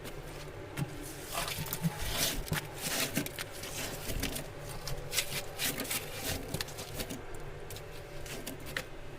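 Ice being scraped and knocked loose from the walls of a freezer compartment during defrosting: a run of irregular scrapes, clicks and knocks.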